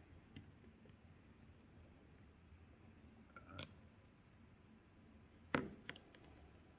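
About four sharp clicks and taps of hand tools on metal parts, spaced a second or more apart over a faint background, the loudest one a little past the middle.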